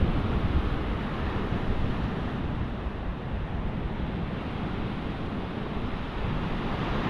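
Rough sea surf washing and breaking in strong wind, with wind buffeting the microphone. It is a steady low rushing noise that gets a little louder about six seconds in.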